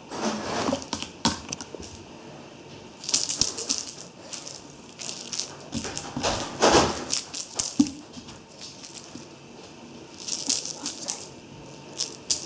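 Irregular rustling and crinkling with sharp taps and clicks, coming in bursts about three seconds in, around the middle and near the end: small scrambling and pawing movements, like a kitten at play.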